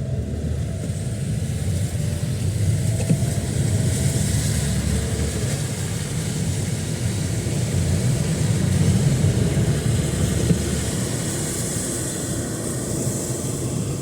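Motor traffic passing on a wet street: a steady low engine rumble with a hiss of tyres and spray.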